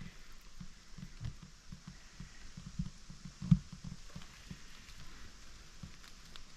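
Faint, irregular soft thumps and rustling, with one sharper knock about three and a half seconds in.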